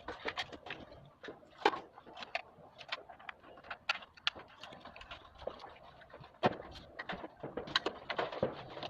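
Parts of a split air conditioner's indoor unit being handled and fitted: irregular clicks, taps and light knocks, a few of them sharper.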